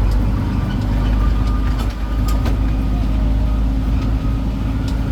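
Tourist road train riding along, its engine giving a steady low drone, with a few sharp clicks and rattles.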